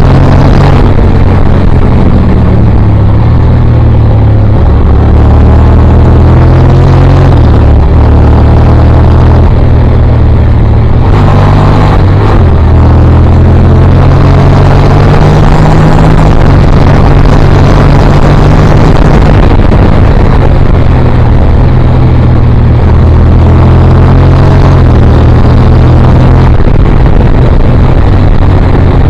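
Motorcycle engine and exhaust running loud under hard riding, its pitch stepping a few times through the gears, with a steady rush of wind noise.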